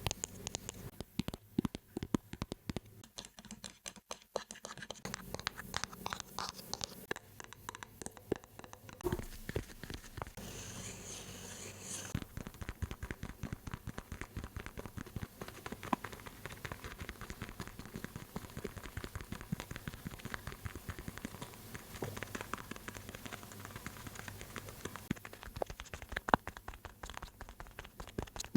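Close-miked ASMR tapping and scratching on objects: a dense run of quick taps and scratches, with a stretch of hissy scratching about nine to twelve seconds in.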